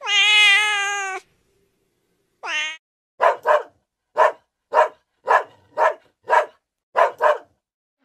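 A domestic cat meowing once, then a brief rising cry, then a dog barking about nine times in quick succession, roughly two barks a second.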